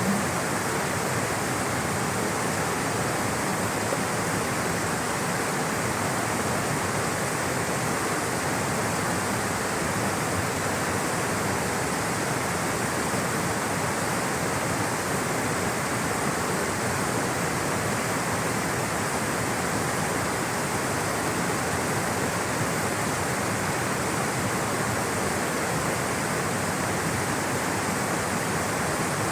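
Rushing water flowing steadily, a constant even roar with no breaks.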